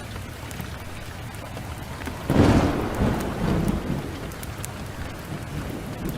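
Steady heavy rain with a crackling wood fire; about two seconds in a sudden loud thunderclap breaks and rumbles away over a couple of seconds.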